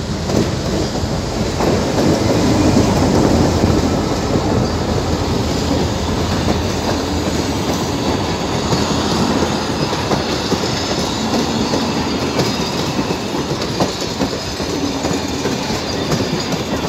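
Passenger train coaches rolling past at close range, a steady loud rumble of wheels on the rails. It is loudest a few seconds in.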